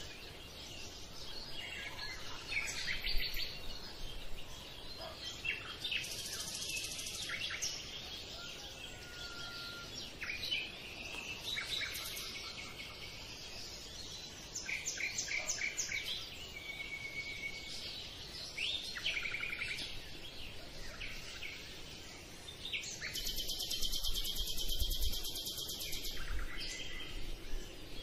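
Several birds chirping and calling, with short repeated notes and rapid trills over a faint steady background; a denser buzzing trill of about three seconds comes near the end.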